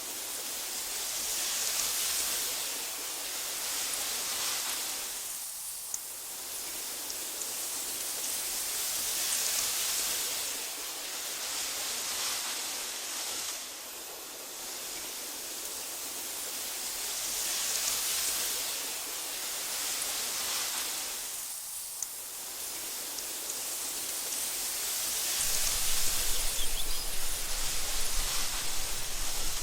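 Wind blowing through tall meadow grass, a soft hiss that swells and fades in slow gusts every few seconds. Near the end a low rumble comes in under it and the sound grows louder.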